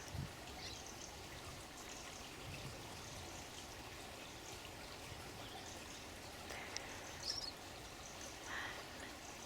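Steady running water, like a small stream or trickle, with a couple of faint high bird chirps about seven seconds in.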